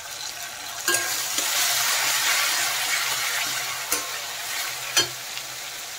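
Tomato purée sizzling in hot oil with fried onion masala in a kadai as a metal spatula stirs it. The sizzle grows louder about a second in, and the spatula knocks against the pan three times.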